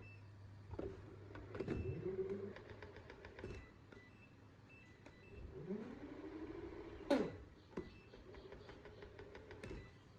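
Hub motors of a two-wheeled self-balancing electric scooter whining, rising in pitch as it speeds up twice and then running steady. Scattered clicks and a few short high beeps come with it, one sharp knock about seven seconds in.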